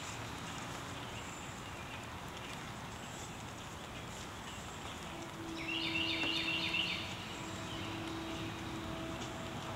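Outdoor background with a bird calling: a quick run of repeated high chirps about six seconds in, over a faint steady low hum.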